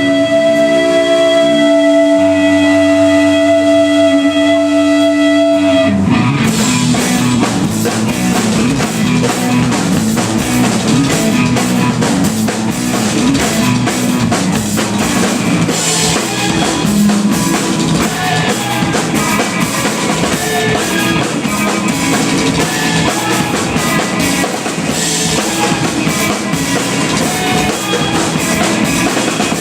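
Live band with drums and guitar. A few steady held notes ring on their own for about six seconds, then the drum kit and guitars come in together and play on loudly.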